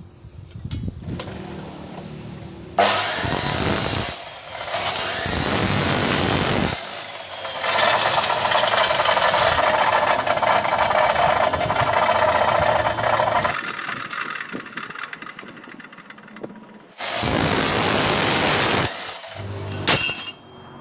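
A power tool cutting or grinding steel bar in four bursts: two short ones, a long cut of about six seconds in the middle, and another short one near the end, each starting and stopping sharply.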